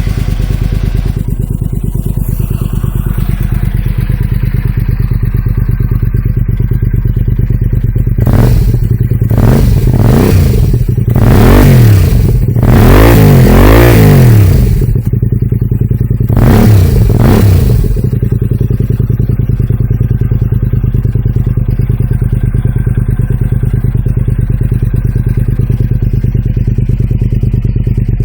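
Honda Xelvis 250 cc V-twin motorcycle idling through its muffler, with a run of throttle blips from about 8 to 18 seconds in, each revving up and falling back, then settling back to a steady idle.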